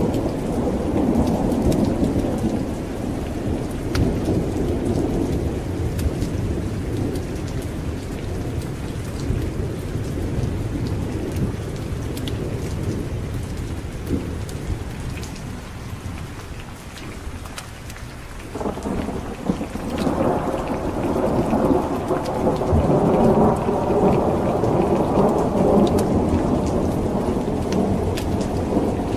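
Thunderstorm with steady heavy rain and rolling thunder. One long rumble fades away toward the middle, then a new roll of thunder breaks in suddenly a little past halfway and swells louder.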